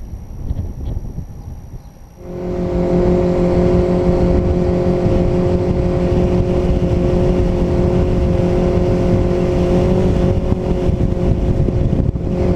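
Mercury outboard motor on a bass boat, newly being broken in, running hard at a steady high speed. It comes in loudly about two seconds in after a lower rumble and holds one steady pitch after that.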